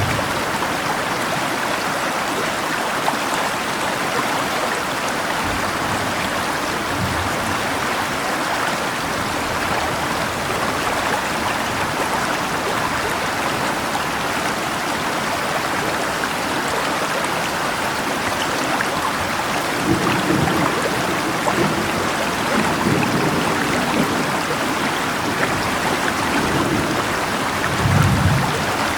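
Steady rain mixed with rushing river water. Low rumbles of thunder swell about two-thirds of the way through and again near the end.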